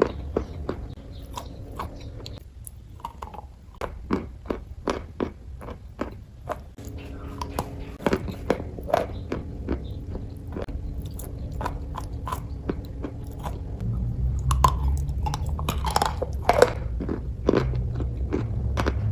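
Close-miked chewing of crunchy food: a run of sharp crunches and crackles over a low steady hum, growing louder and denser near the end.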